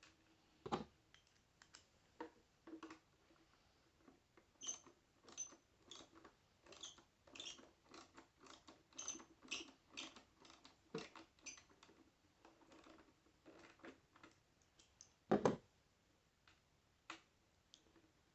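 Faint, irregular run of small clicks and ticks as a plastic toy and its screws are handled, some with a thin high squeak, and one louder knock about fifteen seconds in.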